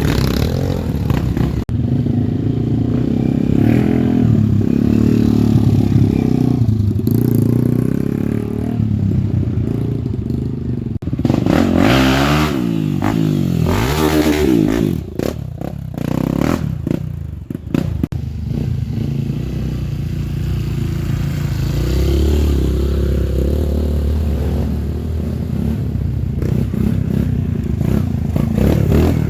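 Off-road trail motorcycle engines running hard and revving, the revs swinging up and down sharply about halfway through, with some clattering.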